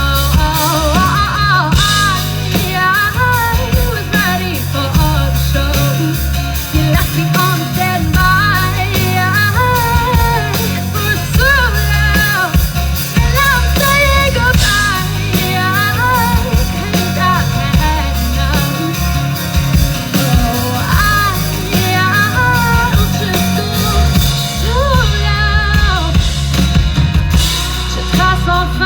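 Pop-rock song played by a band: a steady drum-kit beat under a sliding, sung melody line.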